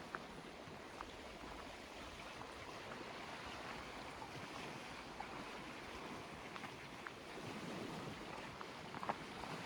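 Small lake waves washing and lapping steadily, with a few faint ticks of water.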